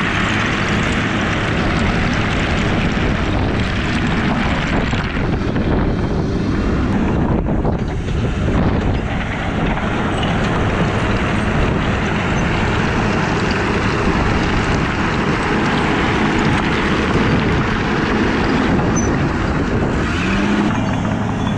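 Heavy construction machine's engine running steadily, a loud even rumble with no breaks.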